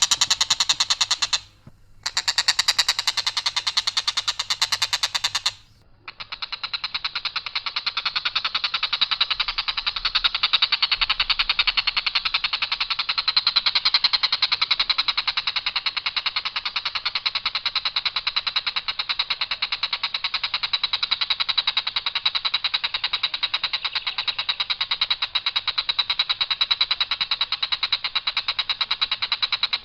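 Tengkek buto kingfisher giving its long, harsh, unvarying rattle of very rapid notes. It breaks off briefly twice in the first few seconds, then runs on without a pause.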